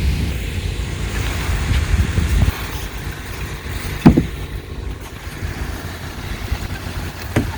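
Car engine idling, a low steady rumble, with a sharp knock about four seconds in and a smaller click near the end.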